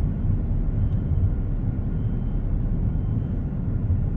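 Steady low road rumble of a car being driven, heard from inside the cabin: tyre and engine noise with no distinct events.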